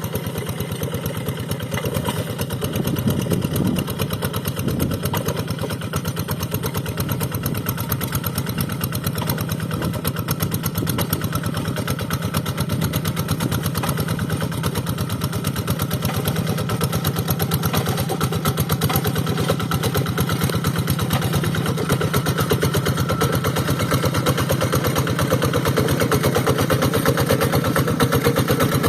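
Single-cylinder diesel engine of a two-wheel rice field hand tractor running steadily with a fast, even beat, getting a little louder near the end.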